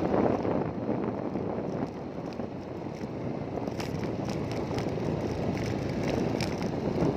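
Wind buffeting the microphone over a steady low rumble of travel, slightly easing off around two seconds in, with a few faint ticks later.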